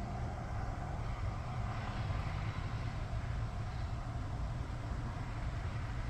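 Gusty wind during a heavy snow squall, buffeting the microphone as a steady low rumble with a rushing hiss over it.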